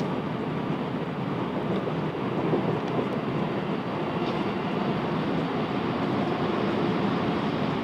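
Class 707 Desiro electric multiple unit running between stations, heard from inside the carriage: a steady rumble of wheels on the rails, with a few faint ticks.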